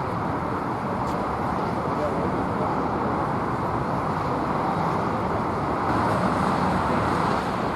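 Steady roar of jet aircraft engines, growing a little louder about six seconds in.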